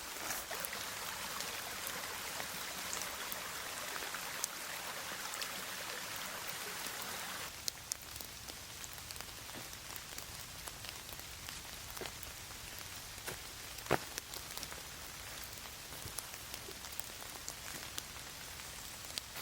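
Rain falling on trees and leaves: a steady hiss of rain with single drops ticking through it. About a third of the way in, it drops abruptly to a softer patter.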